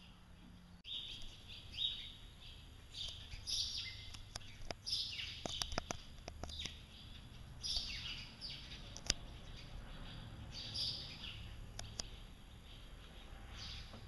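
Small birds chirping and twittering again and again, in quick downward-sweeping calls, over a steady low hum, with a few sharp clicks about halfway through.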